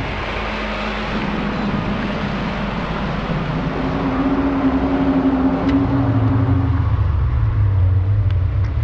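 Low drone of unknown cause heard in the sky, over a steady noisy rumble. A held tone sounds from about three and a half to seven seconds in, then gives way to a deeper tone.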